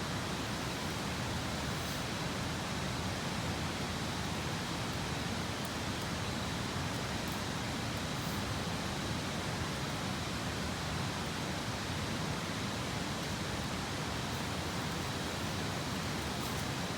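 Steady rushing noise of a river flowing, with a few faint, sharp crackles from the wood fire.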